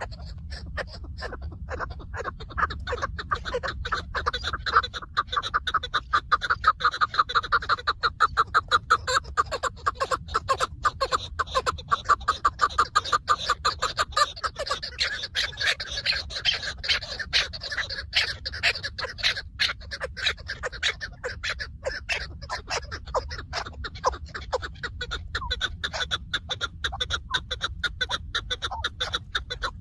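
Chukar partridge calling: a long run of rapid, repeated clucking notes, loudest in the first half and carrying on more softly.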